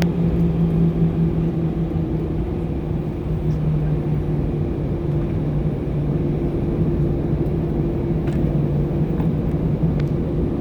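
Steady cabin noise of an Airbus A320 taxiing, heard from inside the cabin: a continuous low rumble with a steady engine hum in two tones, the lower one dipping slightly in pitch a few seconds in.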